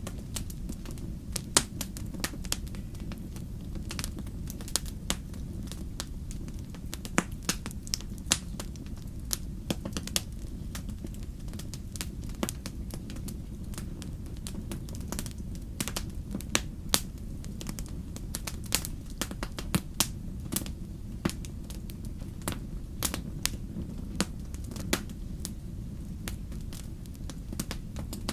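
Wood fire crackling: irregular sharp pops and snaps, a few of them loud, over a steady low rumble of the burning fire.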